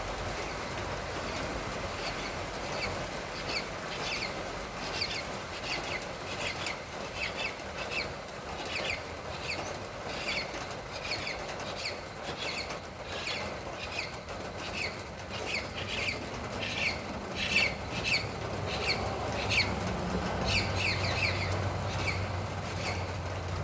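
A bird calls again and again, a quick falling chirp about twice a second, over the steady hiss of light rain. Near the end a low hum joins in.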